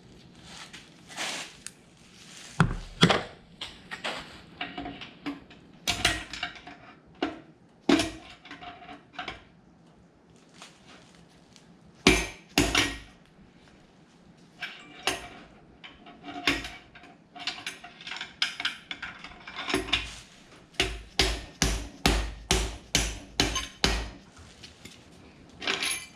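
Hammer knocks driving a stuck piston out of the cylinder bore of a Ford 4.6L two-valve V8 block. There are scattered metallic strikes at first, then a quicker run of about two or three strikes a second near the end.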